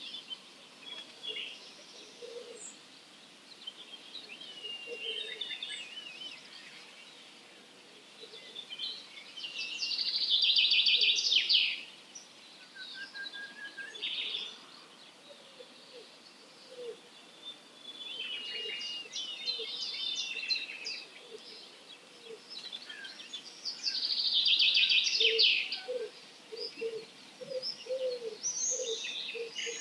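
Dawn chorus of several wild songbirds singing and calling over one another, with two loud, dense bursts of song about ten seconds in and again about twenty-four seconds in. Near the end a quick run of short low notes joins in.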